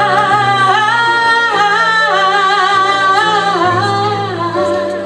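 Female voice singing a long wordless run, holding and bending notes, over instrumental accompaniment with low bass notes changing about once a second; the voice fades out near the end.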